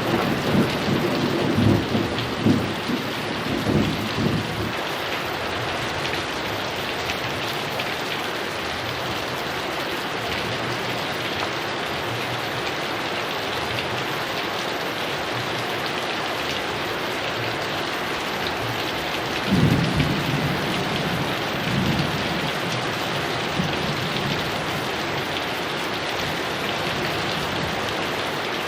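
Heavy rain falling steadily, with rolls of thunder rumbling and fading out over the first few seconds and another roll of thunder about two-thirds of the way through.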